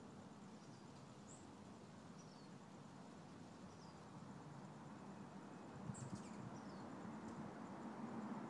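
Faint outdoor ambience: steady low background noise with small birds chirping, short high chirps every second or so and a quick burst of them about six seconds in.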